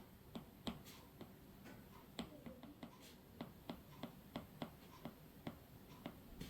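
Faint, sharp tapping clicks at an uneven pace, roughly two a second.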